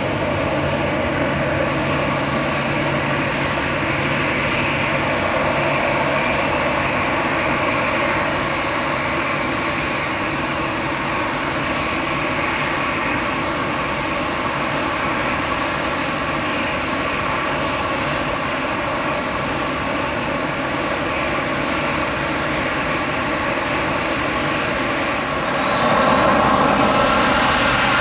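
Airbus A320-211's CFM56 jet engines running steadily with a whine. About two seconds before the end they grow louder and a rising whine sets in as the engines spool up.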